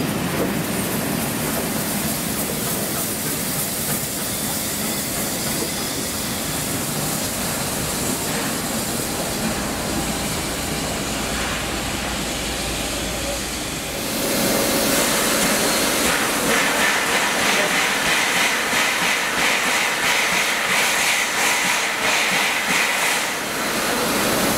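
Heritage train hauled by steam locomotive 3801 running along the track: a steady rushing noise that grows louder and brighter about 14 seconds in, with rapid clicking of wheels over rail joints.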